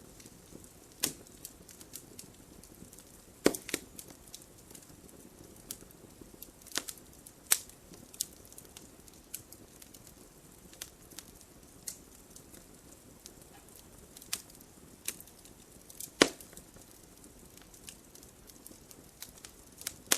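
Wood fire in a fireplace crackling: irregular sharp pops and snaps over a soft hiss, with two louder pops, about three and a half seconds in and about sixteen seconds in.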